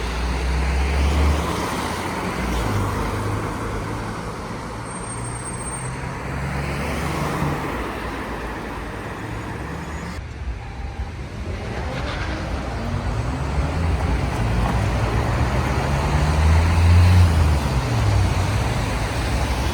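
City street traffic: motor vehicles running and passing, their engine note rising and falling, loudest as one passes close near the end. The sound breaks off abruptly about halfway through and picks up again.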